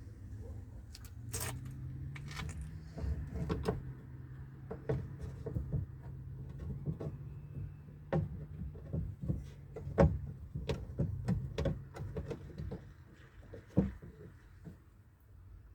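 Irregular clicks and knocks of hand tools and metal parts while the power-window regulator and its motor are taken out of a UAZ Patriot front door, with a sharp knock about ten seconds in and another near the end. A low steady hum runs underneath.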